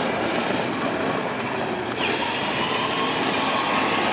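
Child's battery-powered ride-on toy car driving, its plastic wheels rumbling over the ground under a steady electric motor whine. About halfway the whine drops in pitch and then holds steady.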